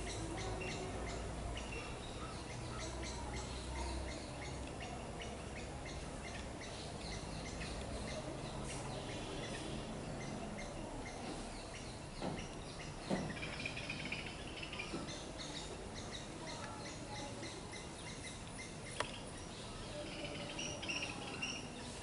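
Birds chirping now and then over a steady outdoor hum of background noise, with a few sharp clicks.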